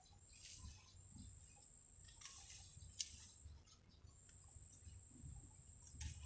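Near silence, with a faint, high, steady insect trill that stops and starts, and a few soft clicks.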